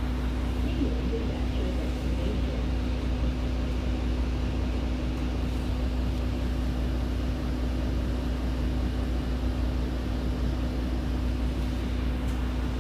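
Route bus interior running sound: a steady low engine and road rumble with a constant hum through the cabin.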